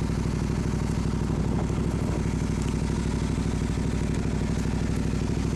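Motorcycle engine idling steadily with an even, rapid pulsing beat.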